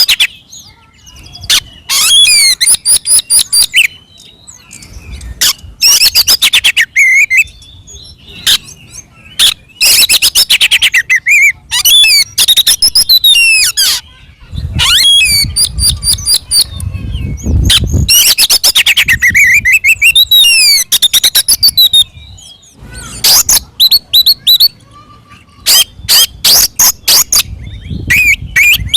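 Oriental magpie-robin (kacer) singing loudly, in phrases of rapid, chattering notes mixed with whistled slurs, broken by short pauses.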